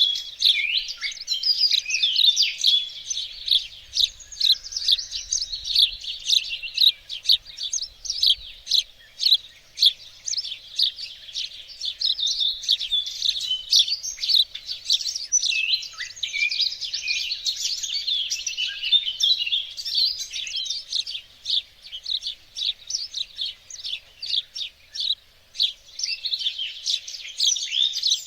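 Several small songbirds singing and chirping at once, a dense chorus of overlapping high, quick chirps and trills.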